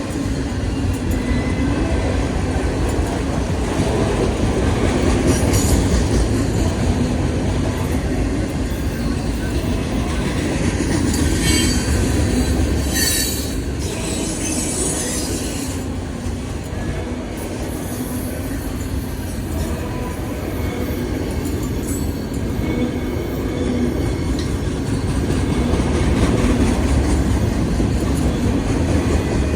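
Freight cars of a CSX manifest train rolling steadily past, with the rumble and clatter of steel wheels on rail. Short high-pitched wheel squeals come about halfway through.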